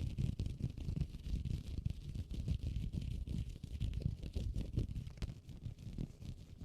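Key case handled close to the microphone for sped-up ASMR: rapid, dense scratching and tapping with no pauses.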